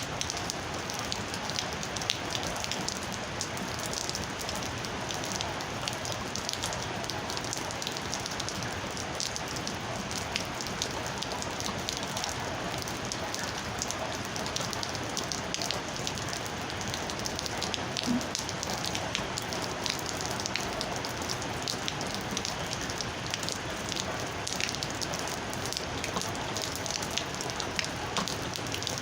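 Steady rain falling, with many separate drop impacts clicking through the even hiss of the shower.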